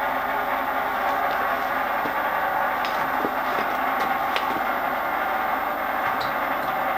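Milling machine running steadily with a gear tooth cutter cutting a tooth into a steel trial blank, a steady hum with a held tone and a few light ticks.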